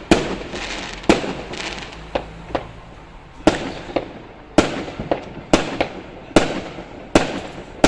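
Fireworks display going off: a string of sharp bangs, roughly one a second at uneven spacing, each trailing a short echo.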